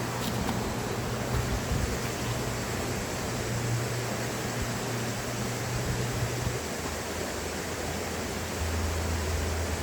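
A fast river rushing loudly, a steady roar of water with no breaks.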